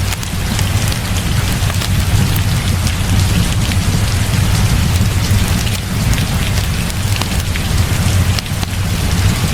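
Heavy rain falling steadily, with a constant deep low rumble underneath and scattered sharp little ticks of drops.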